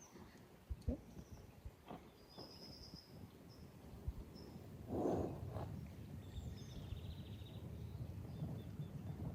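Quiet outdoor ambience: small birds chirping faintly, with a short trill about seven seconds in. There are a few soft thuds and one short noisy burst about five seconds in.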